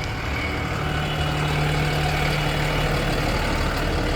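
Peterbilt service truck's diesel engine idling steadily.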